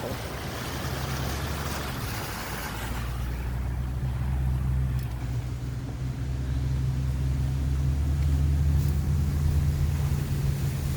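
A car's steady low engine hum and road noise while driving, growing slightly stronger about three seconds in.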